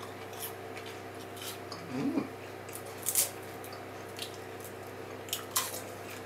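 A person chewing crunchy caramel-coated popcorn: scattered sharp crunches and wet mouth clicks, with a short hummed 'mm' about two seconds in.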